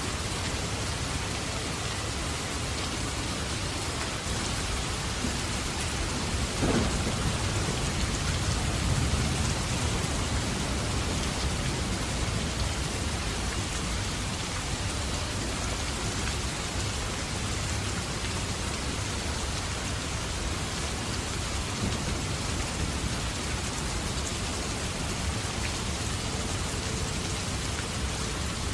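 Steady rain falling, with a low rumble of thunder swelling about seven seconds in and rolling on for a few seconds.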